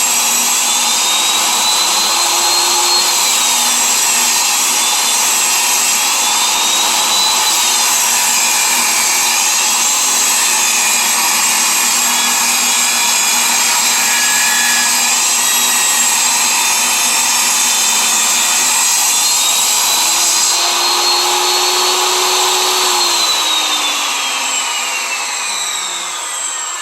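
Table saw running and ripping about an eighth of an inch off a board's edge, its high whine dipping and recovering as the wood feeds through the blade. Near the end the saw is switched off and winds down, the whine falling steadily.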